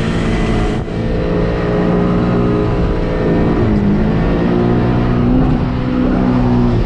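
Toyota KE70 Corolla's 7A-GE four-cylinder engine running hard, heard from inside the cabin, its pitch rising and falling slightly as the throttle is worked through a slide. There is a brief dip in level about a second in.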